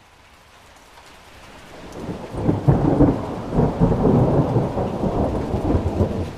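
A roll of thunder that builds over about two seconds into a long, loud rumble, then eases off near the end, with rain falling steadily throughout.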